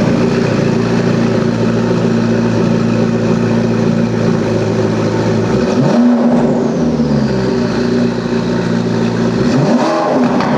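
A supercar engine running loud at steady revs, rising in pitch about halfway through, then falling slowly before rising again near the end.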